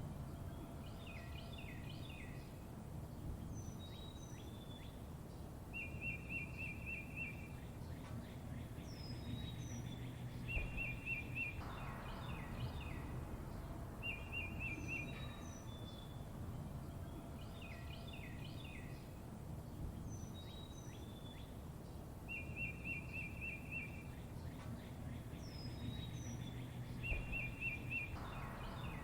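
Songbirds chirping and trilling over a steady low background rumble. A fast, rattling trill comes every few seconds, with short high falling notes between. The same stretch of birdsong repeats about every 16 seconds, as a looped recording.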